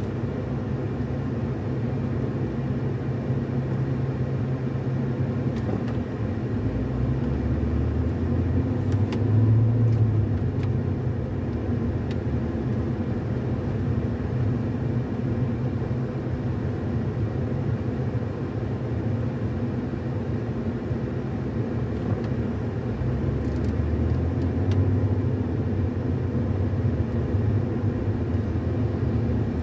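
Road and engine noise heard inside a moving car's cabin: a steady low rumble that swells a little about ten seconds in and again near twenty-five seconds.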